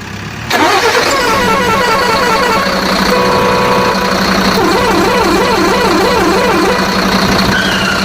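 Electronic toy-vehicle sound effects: a steady buzzing tone with warbling, siren-like tones sweeping up and down over it, starting suddenly about half a second in.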